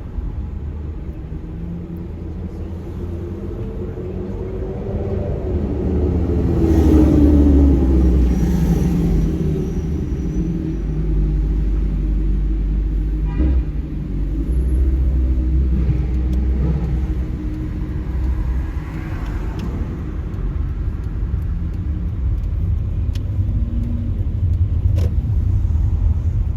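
Street traffic: a steady low rumble of vehicles. A louder vehicle passes a quarter of the way in, its engine note gliding up and down.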